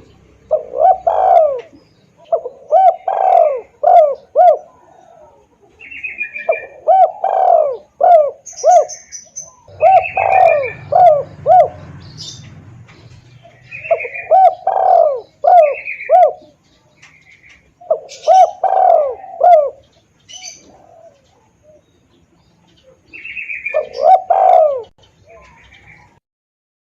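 Spotted dove cooing: phrases of three to five short, arching coos, one phrase every few seconds, with faint high chirps of smaller birds between them.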